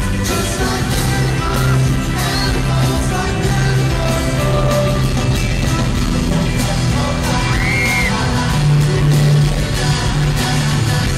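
A pop-rock band and singer performing live, played loud, with a steady drum beat and bass under the vocals.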